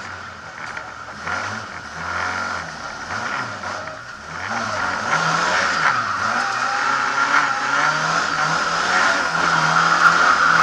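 Lada 2101 rally car's four-cylinder engine heard from inside the cabin, its note rising and falling repeatedly as the driver works the throttle and gears. It is quieter at first and louder from about halfway through.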